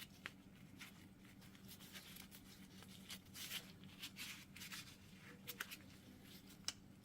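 Faint small clicks and rubbing of a wheel speed sensor being worked into its bore in a new hub bearing, over a steady low hum.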